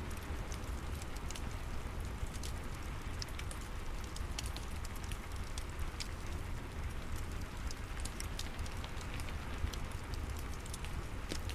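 Steady rain with a crackling wood fire: many small irregular crackles and pops over a constant rain hiss and a low rumble.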